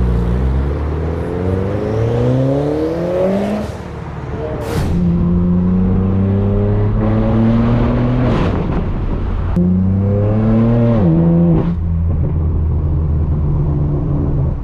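Performance car engine accelerating hard through the gears: the revs climb, drop at each upshift and climb again several times, with a short sharp crack at some of the shifts.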